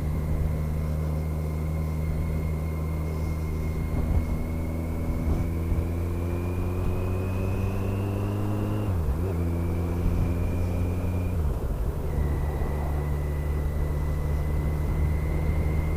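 Kawasaki GTR1400's inline-four engine accelerating out of a roundabout. Its pitch climbs for several seconds, drops at a gear change about halfway through, drops again at a second gear change a couple of seconds later, then holds steady at a cruise.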